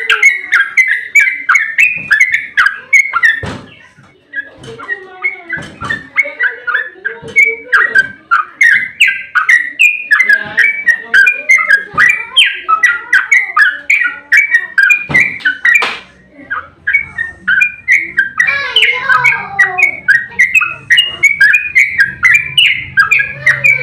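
Yellow-vented bulbul (trucukan) singing a long, rapid run of chattering, bubbling notes, with a short break about four seconds in. A faint low hum joins in the second half.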